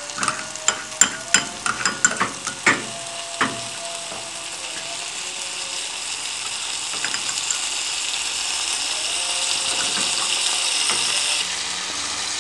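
Onions and ginger-garlic paste frying in oil and butter in a pan, sizzling steadily. A steel spoon clicks and scrapes against the pan several times in the first few seconds. The sizzle then carries on alone, growing a little louder.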